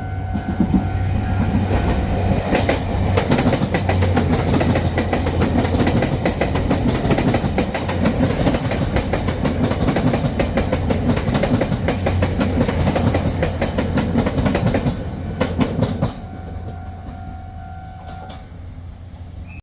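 Train passing at speed: a loud rush of wheel and rail noise with rapid clickety-clack over the rail joints, cutting off suddenly about 16 seconds in. A steady high electronic tone sounds before the train arrives and again after it has gone.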